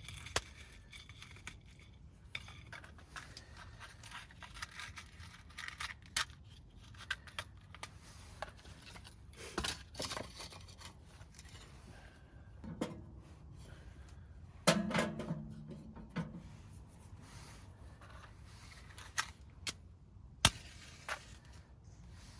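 Small clicks, scrapes and clinks of camp gear being handled, scattered irregularly, with a brief louder low-pitched sound about fifteen seconds in.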